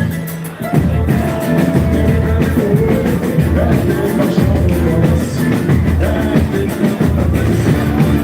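Boi-bumbá toada played live: heavy drum percussion with a singer's voice over it. The music drops away for a moment about half a second in, then comes back in full.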